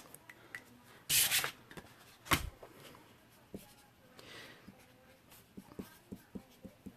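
Small handling sounds of crafting materials on a table. There is a brief rustle about a second in and a sharp click a second later. Near the end comes a run of light ticks and taps.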